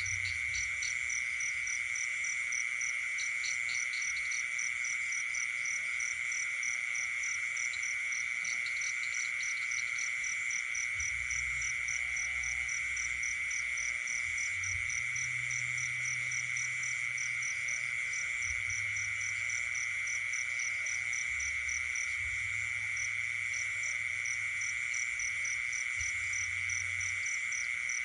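Night chorus of frogs and insects: a loud, unbroken high trill with a fast, evenly pulsing chirp above it, and short runs of ticking calls a few times in the first ten seconds.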